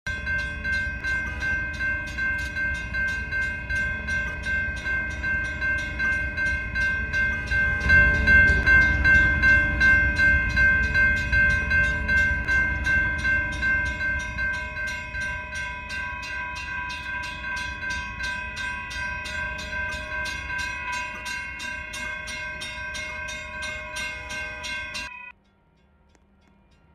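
Railroad crossing bell ringing at a steady rate of about two strikes a second, each strike leaving a ringing tone. A low rumble swells about eight seconds in and then slowly fades, and the ringing cuts off suddenly near the end.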